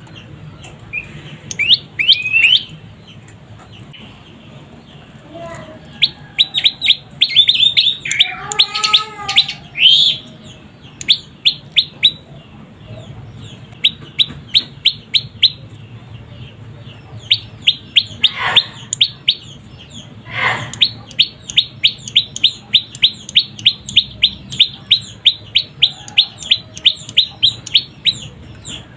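Young prenjak lumut songbird giving loud, sharp chirps in scattered bursts, then a fast, even run of about four or five chirps a second. A lower, drawn-out call comes about nine seconds in.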